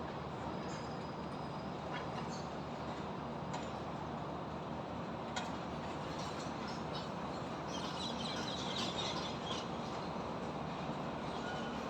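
Steady city ambience of highway traffic and high-rise construction, a continuous dense rumble, with a few faint clanks and a short flurry of high-pitched ticks about eight seconds in.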